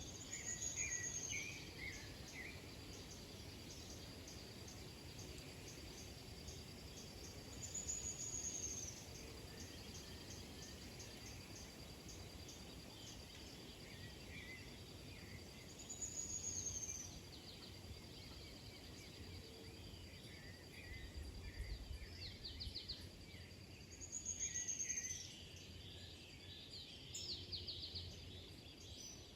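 Birds calling: a short, high, falling call repeats about every eight seconds, with scattered smaller chirps, over a steady high-pitched insect trill.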